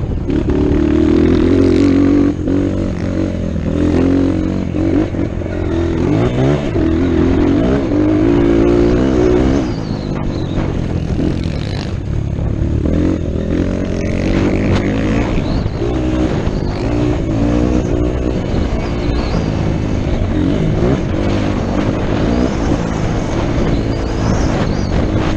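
Motocross dirt bike engine racing, its pitch rising and falling again and again as the rider throttles on and off around the track.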